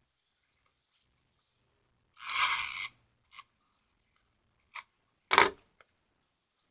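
Cardstock being handled and slid on the work surface: a brief scraping rustle about two seconds in, two faint ticks, then a sharp tap as the piece is set down on the card base.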